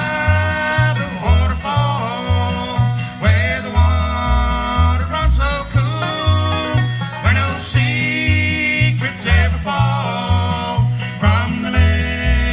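Bluegrass band playing live, banjo and guitar over a steady bass beat of about two notes a second.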